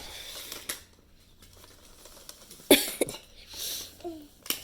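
Handling noises: a few sharp clicks and knocks, the loudest about two and a half seconds in, with a short rustle after it, as a small plastic toy package is handled. A brief falling vocal sound comes near the end.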